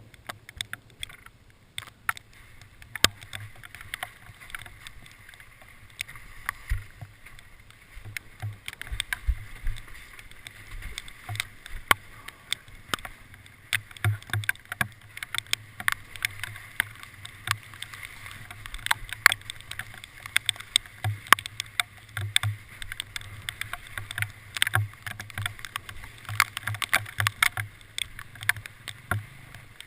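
Hailstones pelting a hard surface: many sharp, irregular taps and clicks, several a second, growing denser about halfway through, over a faint low hum.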